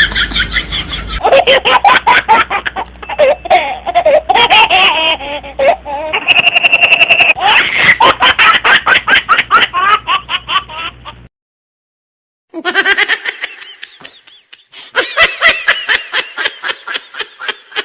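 Bursts of people laughing, quick rapid pulses of laughter, across several short clips cut together, with a second of silence at one cut about two-thirds of the way through.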